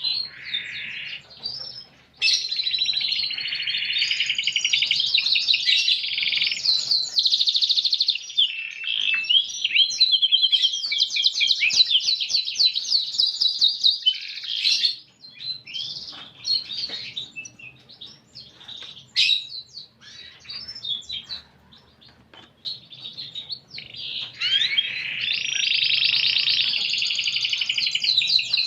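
Domestic canary singing long, fast trilled song phrases. The song breaks off into scattered chirps midway and resumes in full near the end.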